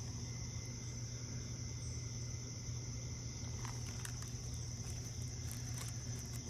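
Quiet background noise: a steady low hum with a steady high-pitched whine over it, and a few faint ticks in the second half.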